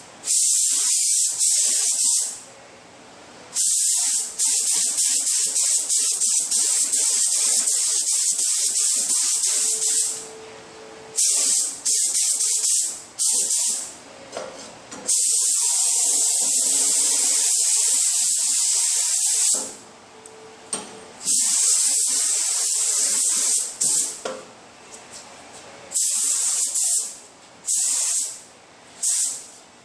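Compressed-air spray gun spraying epoxy primer onto a car fender, a loud hiss in repeated passes of several seconds each as the trigger is pulled and released, with shorter spurts near the end.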